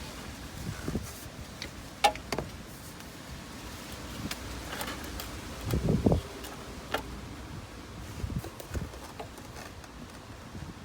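PVC pipe and fittings handled and dry-fitted: a sharp plastic click about two seconds in, a heavier knock about six seconds in and a lighter click soon after, over a faint rustling background.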